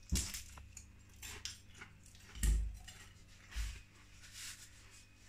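Biting into and chewing a crisp fried spring roll close to the microphone: a crunchy bite right at the start, then a run of crackly crunches as it is chewed, with a couple of dull low thumps in between.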